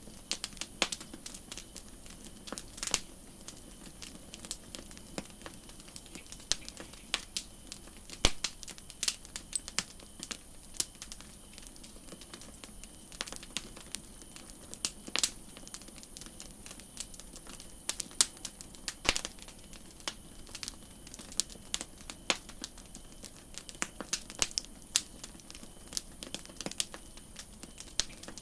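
Wood campfire crackling: irregular sharp pops and snaps, several a second, over a steady soft hiss of the burning fire.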